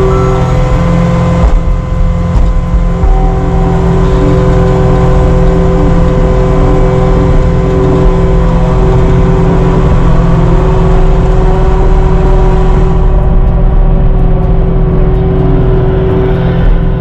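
Caterpillar 259D3 compact track loader's diesel engine running steadily, with a steady whine over it.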